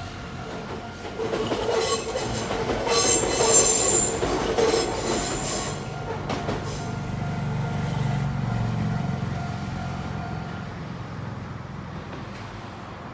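Kintetsu electric train passing over a level crossing, its wheels squealing loudly for a few seconds, then rumbling away as it recedes.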